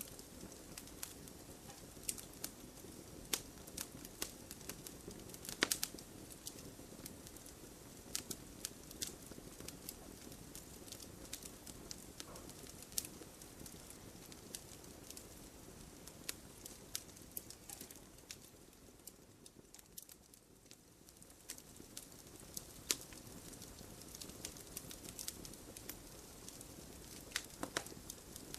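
Wood fire in a fireplace crackling: frequent sharp pops and snaps over a steady low hiss of the burning logs. The popping thins out and goes quieter for a few seconds about two-thirds of the way through.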